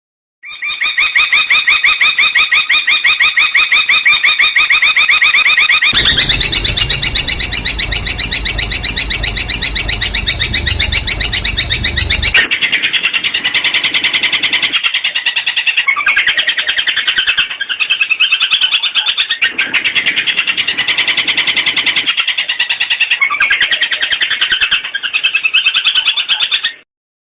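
Long-tailed shrike (cendet) singing a loud, fast string of rapidly repeated notes, many per second, in its competition-style 'gacor' song with mimicked fill-in phrases. The pattern changes abruptly about six seconds in and again about twelve seconds in, with a low rumble under the middle section.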